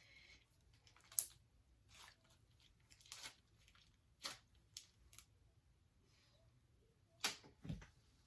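Hands working slime with beads in it: a dozen scattered short crackles and clicks, the sharpest about a second in, with a soft thump near the end.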